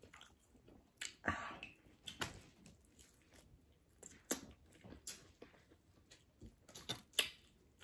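Close-up chewing and mouth smacks of someone eating chicken wings: scattered short, wet smacks and clicks at irregular intervals.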